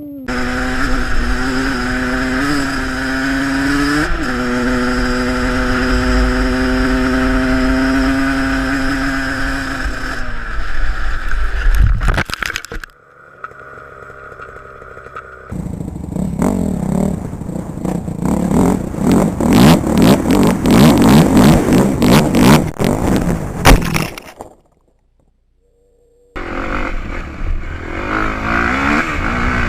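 Motocross bike engines running in several short clips: first a steady engine note, then a louder, rougher stretch full of rapid clattering knocks. The sound drops out briefly near the end, and then an engine runs again.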